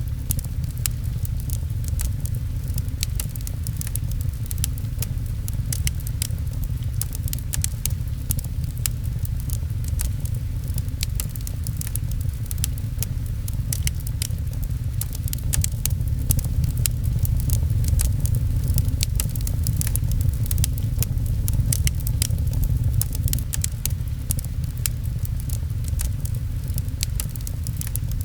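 Wood fire crackling, with many sharp pops scattered irregularly over a steady low rumble and the patter of rain.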